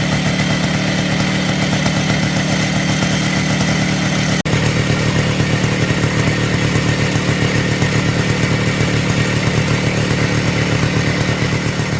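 Minsk motorcycle's single-cylinder two-stroke engine running steadily with a fast, even beat, cut off for an instant about four and a half seconds in.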